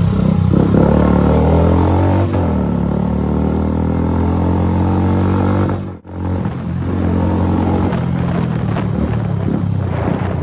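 Royal Enfield single-cylinder motorcycle engine running under way, heard from the rider's seat. Its pitch falls as the bike slows from about two seconds in, the sound drops out briefly at a cut about six seconds in, then it runs on steadily.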